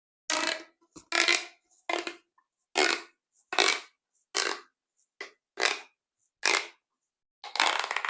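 Big plastic pop tubes being worked, making short crunchy bursts about ten times, a little under a second apart.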